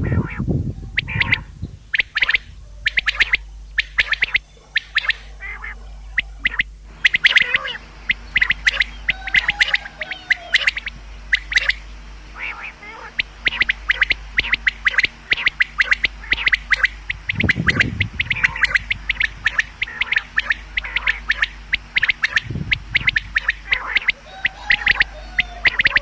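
Common quail calling: short, sharp chirping notes in quick succession, sparse at first and then coming thick and fast from about a quarter of the way in. A faint steady low hum runs underneath.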